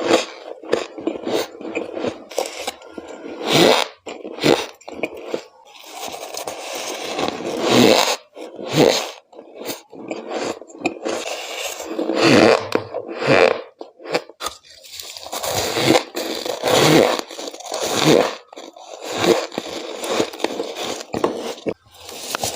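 Close-miked bites into chunks of humidifier freezer frost: a string of sharp crunches at irregular intervals, with longer grinding crunches as the frost breaks up between the teeth.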